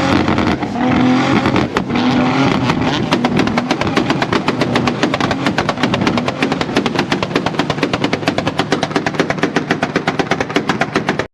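A car engine held on a two-step launch limiter, bouncing off the limiter with a rapid, even string of loud exhaust pops over its engine note. It cuts off suddenly near the end.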